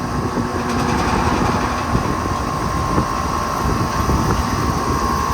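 Two Carrier Performance Series central air conditioner condensers running, one of them just started up: condenser fans blowing and scroll compressors humming. A steady mid-pitched tone grows a little stronger about a second in.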